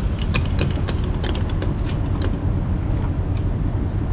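Car running, a steady low rumble of engine and road noise, with scattered sharp clicks over it.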